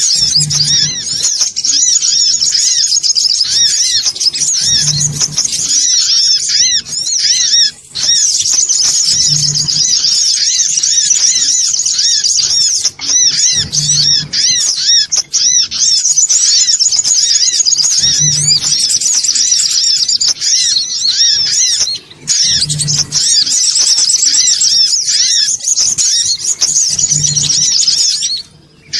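Songon otong sunbird lure call: a busy, rapid, high-pitched chattering of many overlapping call notes, nearly continuous with a few brief breaks. Under it a low thump repeats about every four and a half seconds.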